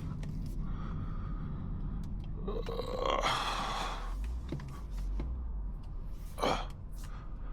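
Microphone being handled and pulled off the engine intake: rubbing and scraping on the mic over a steady low engine hum, with a short rising sound about three seconds in and a sharp rub about six and a half seconds in.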